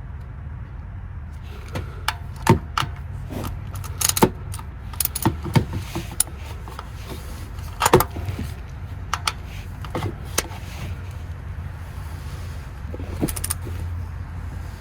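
Irregular metallic clicks and clinks of a wrench and oil-filter cap tool working on a tight cartridge oil filter housing, over a steady low hum.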